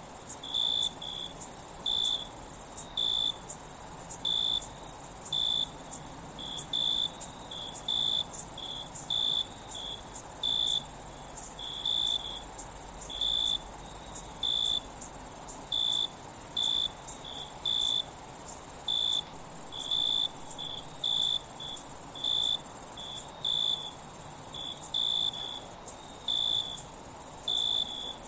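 Night insect chorus: crickets with a steady high-pitched trill, and a lower chirp repeating irregularly one to two times a second over it. The trill drops out briefly now and then.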